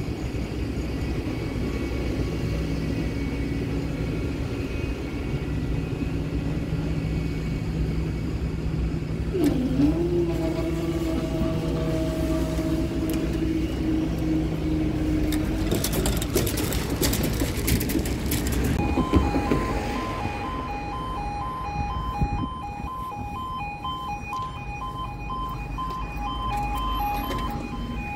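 Vehicle engines running, then about two-thirds of the way through a level crossing alarm starts: two pulsing warning tones repeating steadily as the crossing begins to close.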